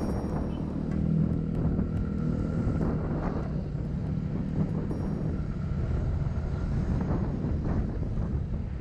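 Yamaha Mio Gear S scooter's single-cylinder engine running steadily while riding, under a dense low rumble of wind and road noise.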